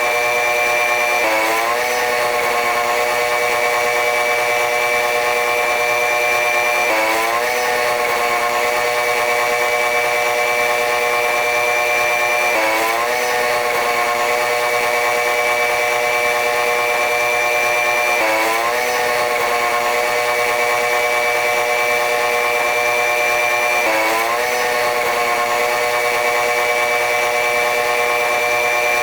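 Train running noise dominated by a diesel-electric locomotive's engine drone: a stack of steady tones that slowly climbs in pitch and drops back abruptly about every five and a half seconds, five times over.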